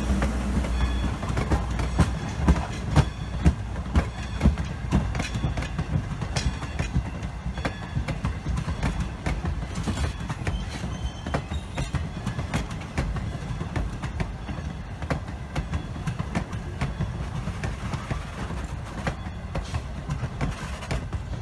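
Railroad cars rolling past, wheels clicking rapidly over rail joints over a steady rumble; the clicks are loudest a few seconds in and slowly fade as the train moves away.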